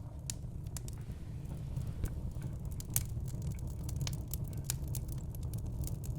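Log fire burning in a fireplace, crackling: sharp, irregular pops and snaps over the steady low rumble of the flames.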